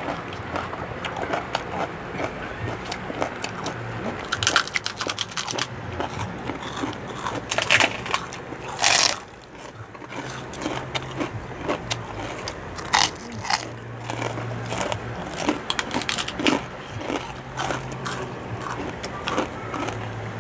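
Crispy pork chicharon (fried pork rinds) being bitten and chewed close to the microphone, a steady run of crackling crunches with a few louder bites.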